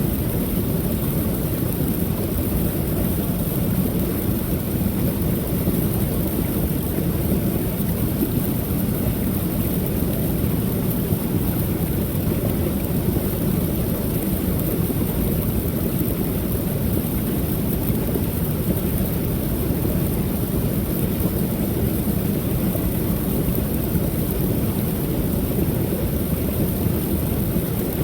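Small creek waterfall: water pouring over a low ledge in a steady, deep rush with no change in level.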